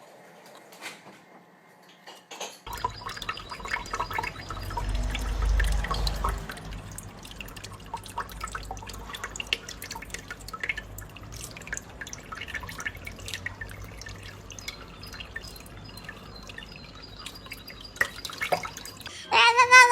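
Water dripping and splashing, with many scattered small clicks and taps and a low rumble a few seconds in.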